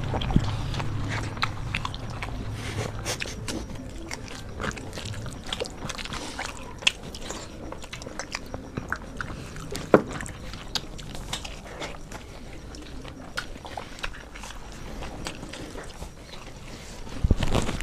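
Two people eating with their hands: chewing, biting and crunching of rice and fried snacks, heard as many short irregular clicks and smacks, with one louder click about ten seconds in.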